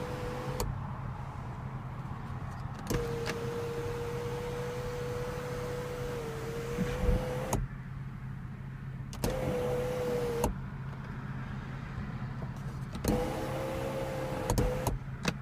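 Electric sunroof motor in a 2014 BMW 435i coupe running in four spells of steady whine, each starting and stopping with a click. The longest spell lasts nearly five seconds and the others one to two seconds.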